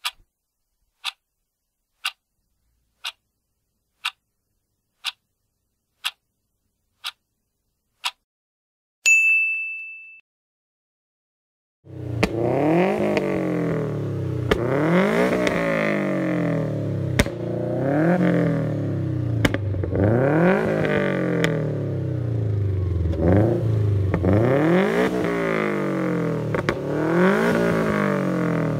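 Subaru Impreza WRX STI's turbocharged flat-four engine revved again and again, each rev climbing and dropping back, about every two seconds, starting about twelve seconds in. Before it, a clock-like tick once a second for eight seconds, then a single ding.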